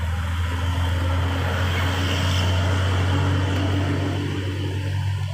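A motor vehicle passing close by on the road, its engine and tyre noise building to a peak about halfway through and then easing off, over a steady low hum.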